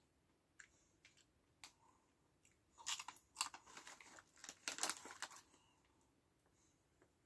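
Crunchy lentil chips being bitten and chewed, with the crisp packet crackling as a hand goes into it for another chip; a few scattered clicks, then a dense run of crunching and crackling from about three seconds in to about five and a half.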